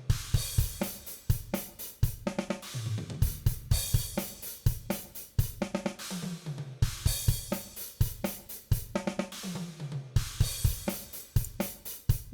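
DrumGizmo sampled acoustic drum kit playing back a steady beat: kick drum, snare, hi-hat and cymbals struck in an even, repeating pattern.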